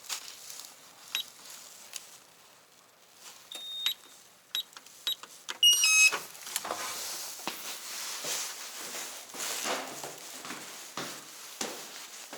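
Electronic keypad beeping as buttons are pressed, single beeps spaced over a few seconds, then a quick run of several electronic tones about six seconds in, like an entry keypad or door lock confirming. Rustling and footsteps follow.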